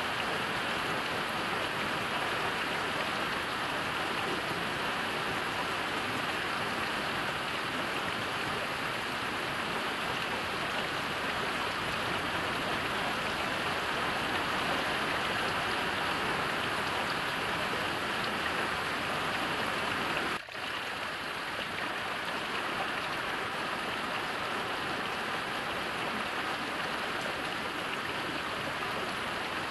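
Heavy rain falling steadily, an even dense patter, with a momentary dip in level about two-thirds of the way through.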